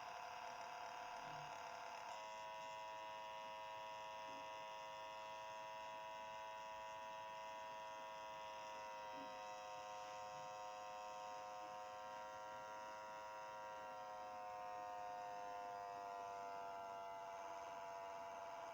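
Small cooling fan on a Raspberry Pi 4 running with a steady whining buzz, its pitch shifting about two seconds in and sagging slightly near the end. The buzz is the abnormal noise the fan has developed.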